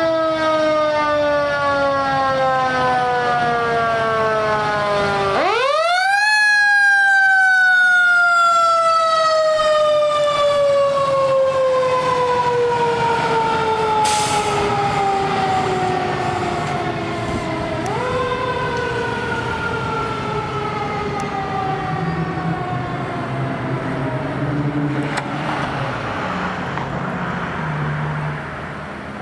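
A fire truck's mechanical siren winding down, then wound up sharply about five seconds in and left to coast slowly down in pitch for many seconds; it is wound up again more briefly about eighteen seconds in and fades as it coasts down, with the truck's engine rumbling underneath near the end.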